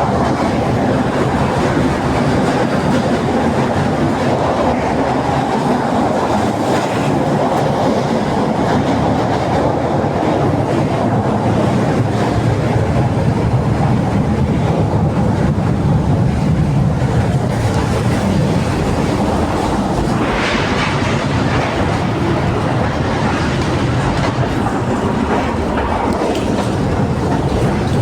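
Coupled Tatra tramcars running along the track: a steady rumble of wheels and running gear with clickety-clack over rail joints, and a brief higher-pitched noise about twenty seconds in.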